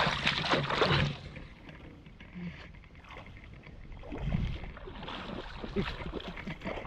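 Water splashing and sloshing, loudest in the first second, then quieter with scattered small knocks and splashes.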